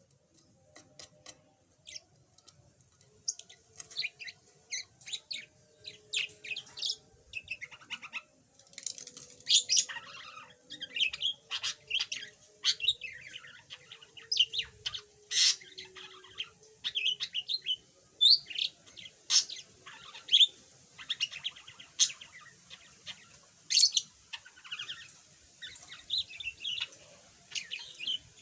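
Budgerigar chattering in a rapid run of short chirps and warbled notes, sparse at first and busy and continuous after about three seconds.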